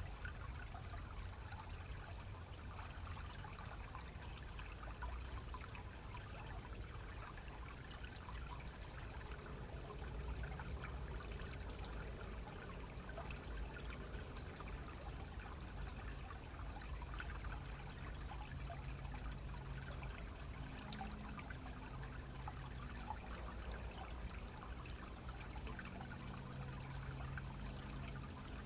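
Clear stream water running steadily, trickling and splashing over stones.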